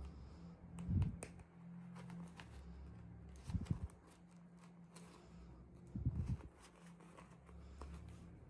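Small objects being handled on a table: faint clicks and rustles with three dull thumps, about one, three and a half and six seconds in, over a steady low hum.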